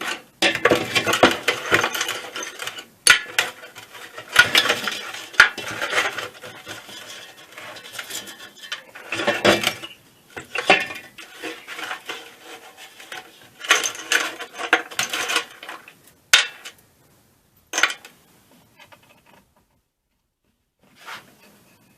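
Loose screws and small metal parts clinking and rattling as they are rummaged through and handled, in bursts with short pauses, thinning out after about two-thirds of the way and ending with one brief rattle.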